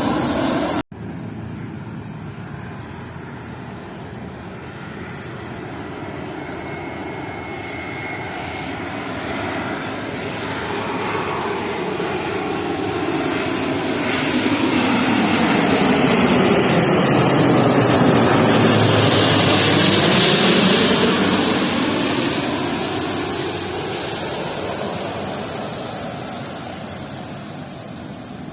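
Airliner passing low overhead on its landing approach. The engine noise grows steadily louder, peaks about two-thirds of the way through, then fades away.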